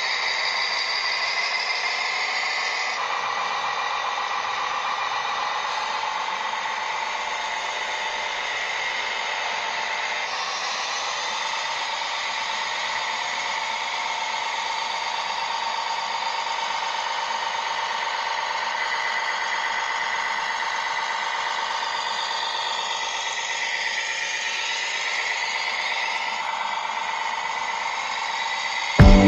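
Small electric motors and gearing of a remote-controlled construction model whining steadily. The pitch shifts a few times and glides up and down near the end, as the machine's movements change.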